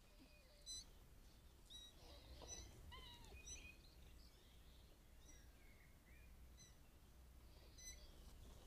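Faint songbirds calling: scattered short chirps, trills and whistled notes from more than one bird, over a low steady hum.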